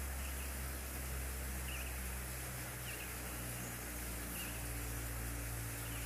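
Steady low rumble of outdoor background noise, with a small bird in the background giving short chirps about every second and a half.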